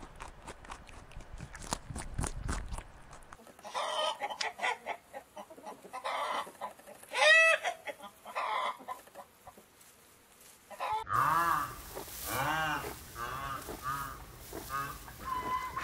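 Domestic chickens: hens clucking, and a rooster crowing once about seven seconds in, the loudest sound. It opens with short clicks and rustling, and later a run of short calls repeats about once a second.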